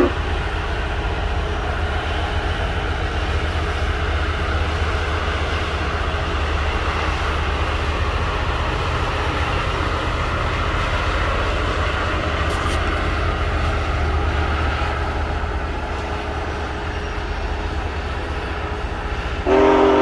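Steady low rumble of Union Pacific Big Boy No. 4014's train running, between whistle blasts. Near the end the steam locomotive's chime whistle sounds again.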